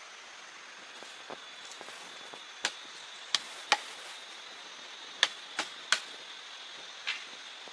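A series of sharp chopping strikes, like a blade cutting into wood, about eight of them at uneven intervals with the loudest in quick pairs through the middle, over a steady faint hiss.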